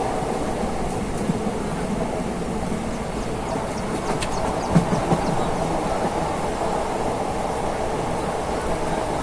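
Steady rumble and rattle of a moving train, with a few light clicks about four to five seconds in.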